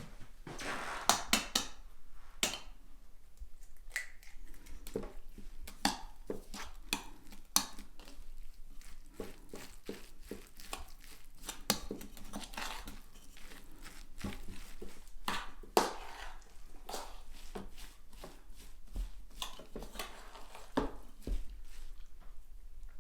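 Kitchen handling sounds during food preparation: irregular clicks and knocks of utensils and dishes, with crushing and rustling noises.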